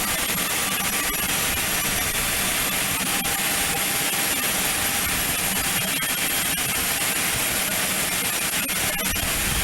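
Learjet's jet engines running at idle on the ramp: a steady loud rushing noise with a thin high whine on top.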